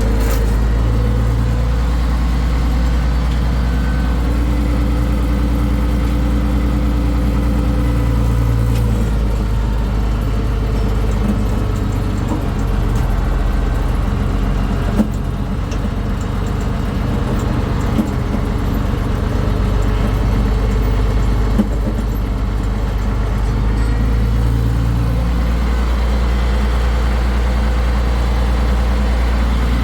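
Farm tractor's diesel engine running steadily at a constant speed, with a few sharp knocks about halfway through.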